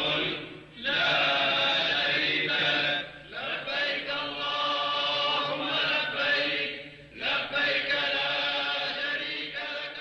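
Vocal chant sung in long, drawn-out phrases, with short breaks between them.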